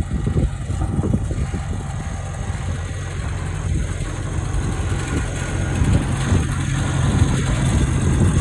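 A 1953 Farmall Cub tractor's small four-cylinder engine running steadily at idle, getting a little louder in the last few seconds.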